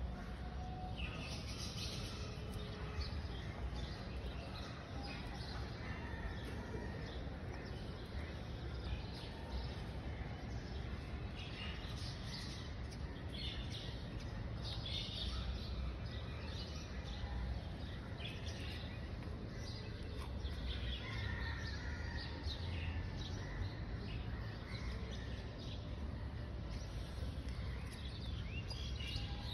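Small birds chirping on and off, short high calls scattered throughout, over a steady low background rumble.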